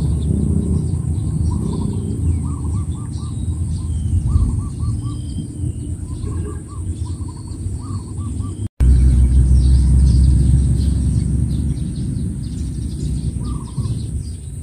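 Birds calling outdoors in quick runs of three to five short notes, with fainter high chirps, over a steady low rumble that gets louder after a brief cut part way through.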